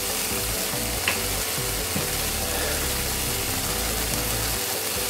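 Grilled cheese sandwiches sizzling steadily in a hot, oiled Lodge cast-iron skillet.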